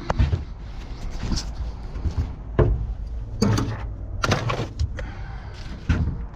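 Irregular knocks, bangs and scrapes of heavy metal appliances being shifted and loaded, over a low steady rumble.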